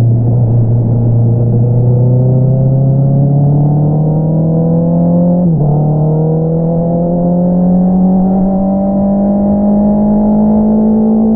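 2022 Honda CBR650R's inline-four through an Akrapovič single-outlet exhaust, accelerating with the engine note climbing steadily. About halfway through the revs drop sharply at a gear change, then climb again.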